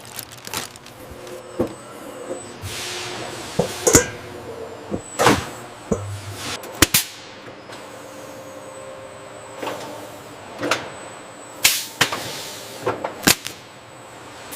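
Irregular sharp knocks and bangs, about a dozen, with whooshing swells between them over a faint steady high tone.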